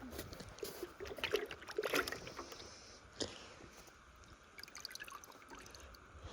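Water sloshing and dribbling as a horse drinks from a container of fresh water. The sound comes as scattered short splashes and slurps, busiest in the first couple of seconds, with one more near the middle.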